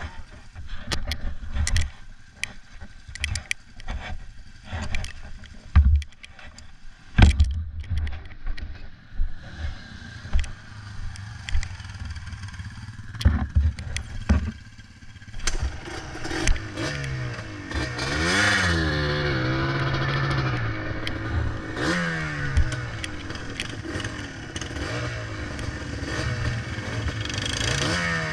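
Irregular knocks and clatter, then, from about halfway through, a Yamaha Blaster ATV's two-stroke single-cylinder engine running and revving, its pitch rising and falling several times.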